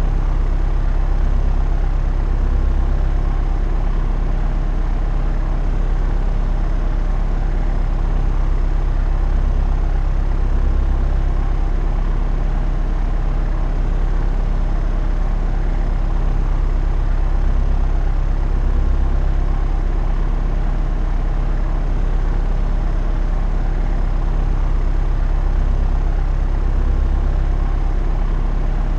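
Propeller aircraft in flight: engine and propeller running in a steady, unbroken low drone, with a faint slow swell every several seconds.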